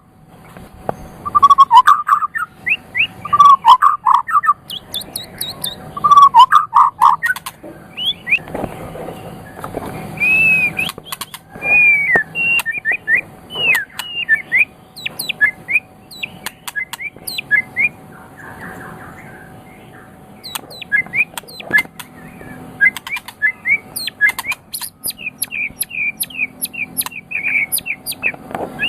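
White-rumped shama (murai batu) singing a long, varied song. A few full, lower whistled phrases in the first several seconds give way to a quick run of higher whistles mixed with sharp ticking notes.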